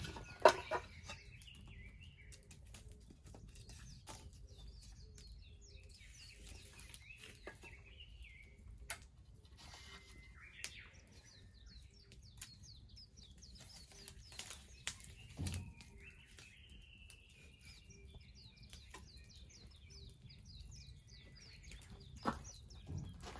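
Wood bonfire crackling with scattered sharp pops, the loudest about half a second in, while birds chirp and trill repeatedly in the background.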